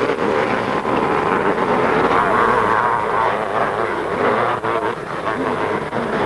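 Motocross motorcycle engines running hard on the track, a continuous high, buzzing blur of several bikes that swells and dips slightly.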